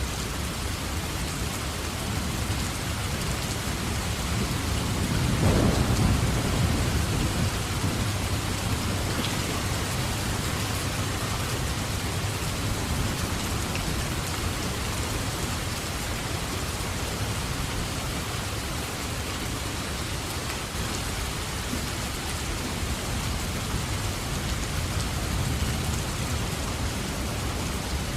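Steady heavy rain falling, with a roll of thunder that swells about five seconds in and rumbles away over the next few seconds.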